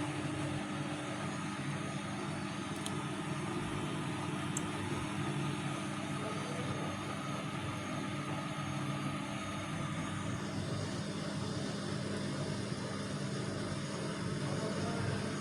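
Vestel CM8710 8 kg washing machine running its final rinse cycle: a steady motor hum under a constant hiss, which thins slightly about ten seconds in.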